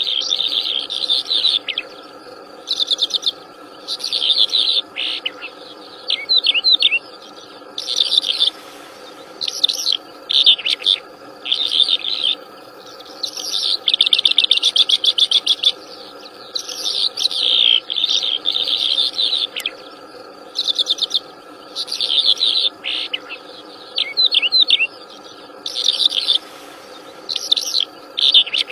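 A wild songbird singing energetically in repeated high phrases of rapid chirps and trills, each lasting about a second with short pauses between. Underneath runs a steady insect drone.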